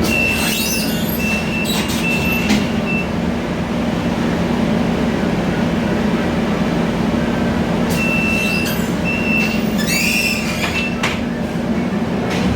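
Cabin sound of a Scania K320iA CNG city bus under way: a steady engine and road drone. It is joined twice by a high squeal with rattling, once near the start and again from about eight to eleven seconds in.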